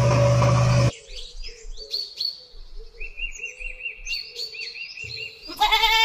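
Small birds chirping in repeated short, high calls. A steady engine-like drone cuts off about a second in, and near the end a loud goat bleat begins.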